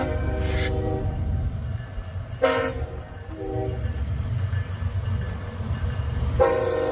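Diesel locomotive air horn sounding in blasts: a long blast ending just after the start, two short blasts at about two and a half and three and a half seconds in, and another long blast starting near the end, over a steady low rumble.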